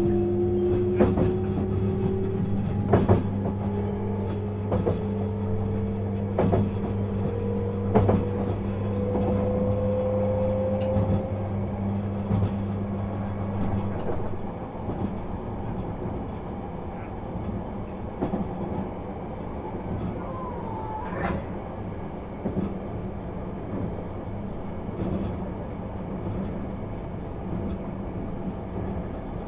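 Inside a JR East 651 series electric train on the move: a motor whine rises steadily in pitch through the first third or so as it gains speed, over a low steady hum that cuts out about halfway through. Wheels click over rail joints every couple of seconds.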